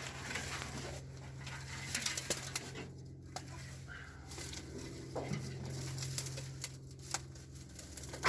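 Scattered light clicks and knocks from a truck's side mirror being moved and checked by hand, over a steady low hum.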